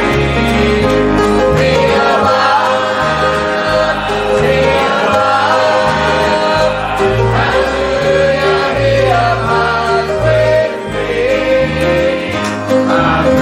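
Group of voices singing a gospel hymn with instrumental accompaniment over a bass line that steps from note to note.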